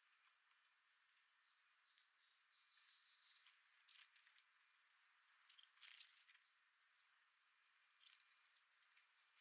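Faint, thin, high calls of a bushtit flock at a suet feeder, scattered short notes throughout, with two sharp taps about four and six seconds in.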